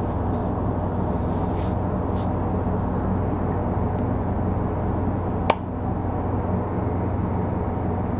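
2011 Kawasaki ZX10R's inline-four engine idling steadily, with one sharp click about five and a half seconds in.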